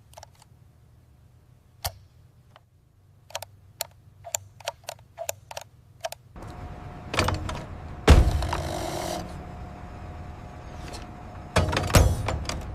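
Scattered sharp mechanical clicks, then about halfway through a steadier mechanical running noise with a faint steady tone, broken by several heavy clunks.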